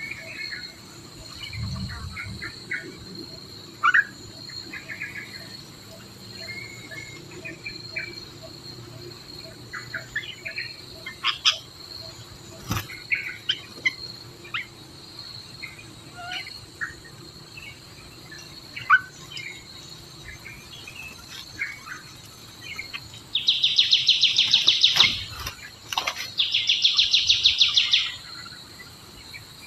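Birds giving short chirps and whistles over a steady, high insect drone. Near the end come two loud, rapid buzzing trills, each about two seconds long.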